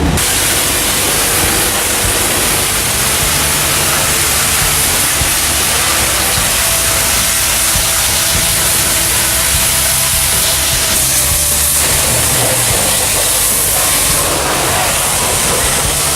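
Pressure washer spraying water in a steady, loud hiss over the low, even hum of its motor, washing down a truck.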